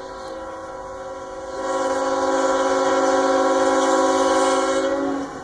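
CSX freight locomotive's air horn sounding one long blast, a chord of several steady tones, growing louder about a second and a half in and cutting off near the end.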